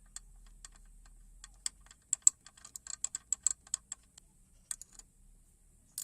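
An irregular run of sharp clicks and taps, about fifteen over some five seconds and bunched together in the middle, with a louder click at the very end.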